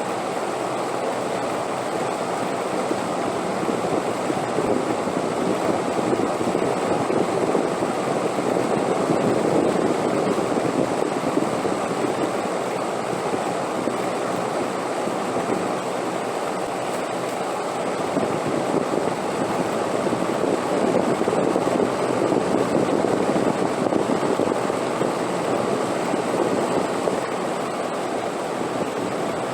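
Steady rushing wind, swelling and easing gently in slow gusts.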